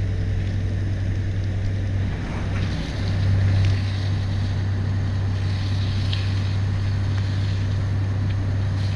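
A motor running steadily with a low hum and a rushing noise over it. It dips briefly a little after two seconds, then swells louder for a moment just past three seconds.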